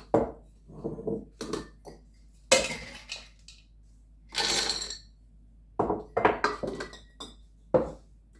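Raw cranberries dropped into a glass quart jar, clattering and rattling against the glass in a string of short bursts, with clinks of glass.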